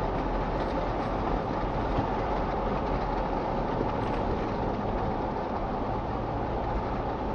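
Steady road and engine noise of a moving car, heard through a dashcam microphone.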